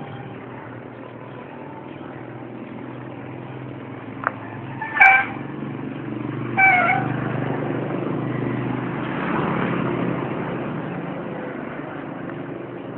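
Steady wind and road noise while riding, with a vehicle passing about nine to ten seconds in. Two short, high-pitched sounds about five and six and a half seconds in are the loudest in the stretch, and there is a faint click just before them.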